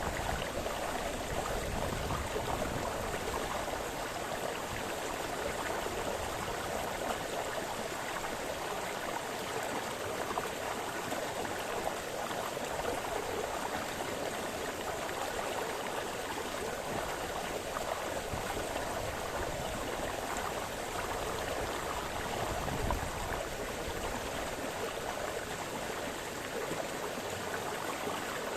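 Small brook splashing and burbling over stones in a steady, even rush, with light fluctuations and no pauses.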